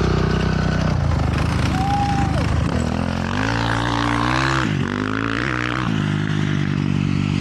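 Dirt bike engine running and revving, its pitch rising and falling, then settling to a steady note for the last second or so.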